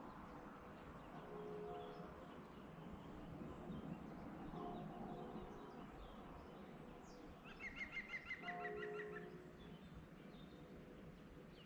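Faint early-morning countryside ambience: a soft steady hiss, with a songbird giving one quick trill of about eight notes about two-thirds of the way in. Faint, distant church bell strokes ring out a few times, about three seconds apart.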